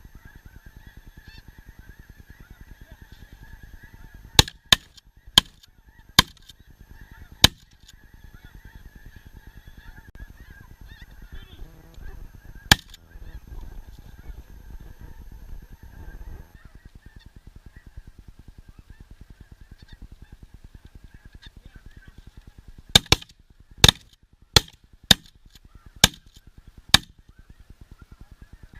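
Snow geese calling continuously in a steady chorus of high honks. Volleys of shotgun shots cut through it: five in quick succession about four seconds in, a single shot around thirteen seconds, and six more spaced under a second apart near the end.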